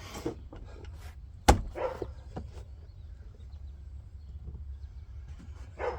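A sharp plastic snap about one and a half seconds in, among lighter clicks and handling noise, as the plastic pins and clips of a car door trim panel are worked back into place.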